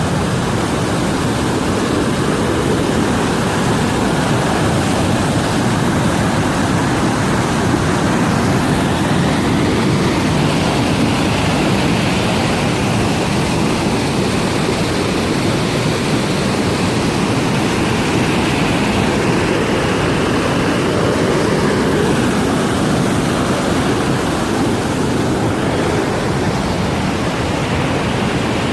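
A flash-flood torrent after rain: fast floodwater rushing loudly and steadily.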